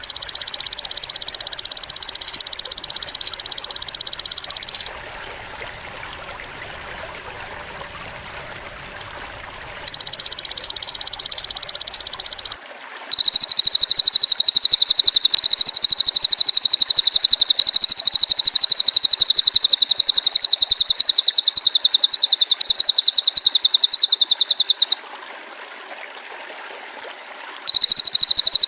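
Shrill, very rapid buzzing trills of a cililin bird and a belalang emas (golden grasshopper), played as a songbird-training recording. They come in long unbroken stretches of several seconds each, the longest about twelve seconds, with a faint low hiss in the short gaps between.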